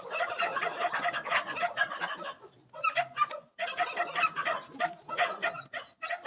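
Chickens clucking: a quick run of short, repeated clucks that breaks off briefly a little before halfway.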